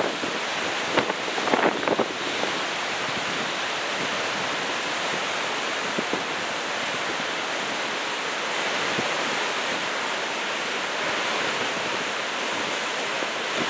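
Heavy, rough surf from a post-typhoon swell breaking and washing up the beach: a steady, unbroken rush of waves, with a few brief louder bursts about a second in.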